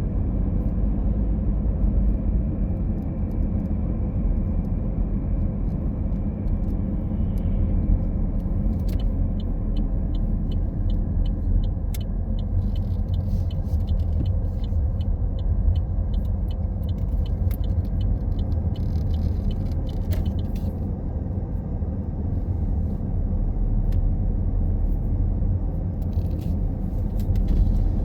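Steady low rumble of a car being driven, engine and tyre road noise, with a run of faint regular ticks through the middle.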